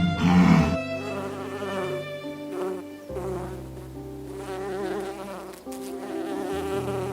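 A flying insect buzzing, a sustained drone whose pitch wavers and shifts up and down several times.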